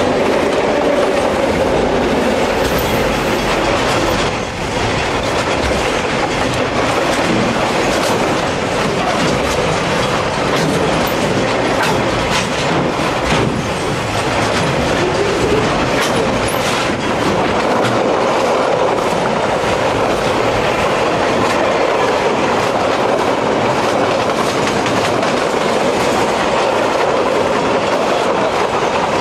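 Container freight train wagons rolling past close by: steady, loud wheel and rail noise, with clickety-clack as the wheels cross the rail joints.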